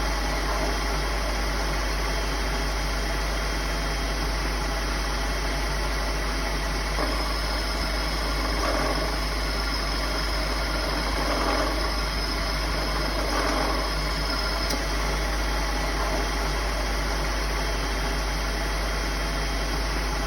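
Car engine running steadily, with a thin high tone that comes in about a third of the way through and cuts off suddenly about three-quarters of the way through.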